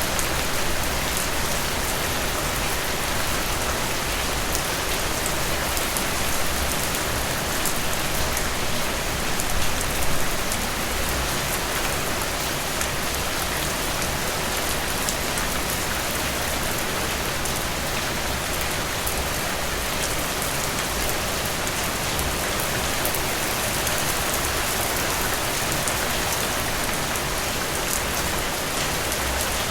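Heavy rain falling steadily, a dense even hiss of drops hitting surfaces with fine individual drop ticks, swelling briefly a little louder about ten seconds in.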